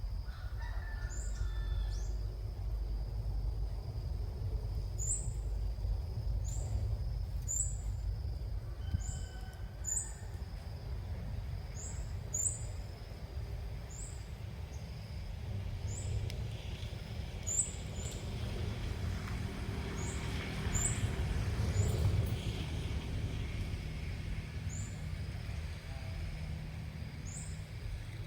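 Birds calling outdoors: short, high, rising chirps repeat every second or two, with a few lower calls early on and about nine seconds in, over a steady low rumble.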